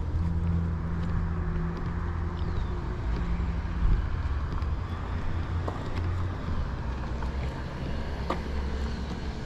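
An engine running with a low, steady hum that fades about four seconds in, with a few faint clicks.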